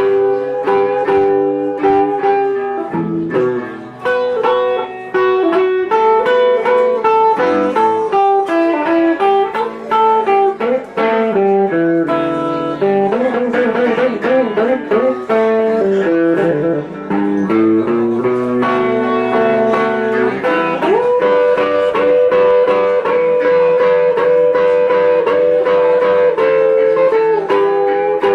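Live Chicago blues band playing an instrumental break with no singing. Lead notes bend and waver in the middle, and long held notes run through the second half.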